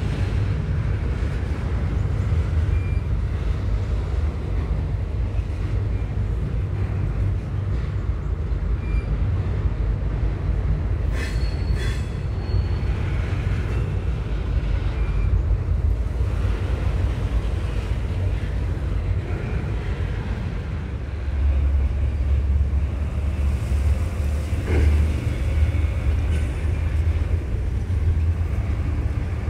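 Freight train rolling past with a steady low rumble of cars and wheels. A brief high wheel squeal comes about eleven seconds in, and the rumble gets louder about twenty-one seconds in.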